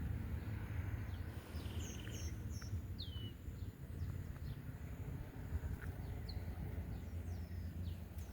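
Birds calling: a scatter of short, high chirps, several sliding downward, over a steady low rumble.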